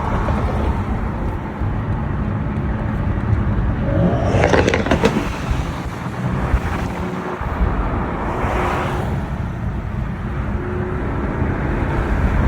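Car engines and road noise running steadily, with a car passing close about four and a half seconds in, its engine note sweeping in pitch, and a fainter pass around eight and a half seconds.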